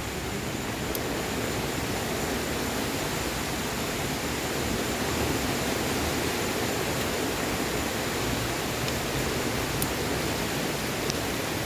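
Steady hiss of rain, with a wood fire burning in an outdoor patio fireplace giving a few sharp, isolated crackles.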